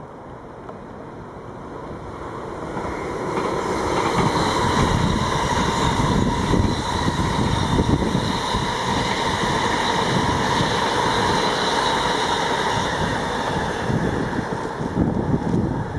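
A train passing on the track: it grows louder over about the first four seconds, then runs steadily loud.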